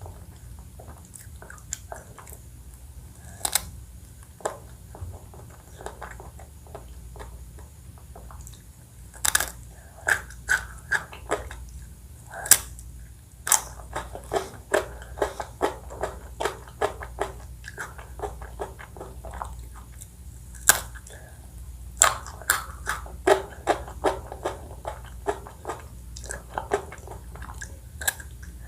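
Close-miked eating of ice cream desserts: biting and chewing with sharp crunching crackles. The crunches are sparse at first and come thick and fast from about a third of the way in.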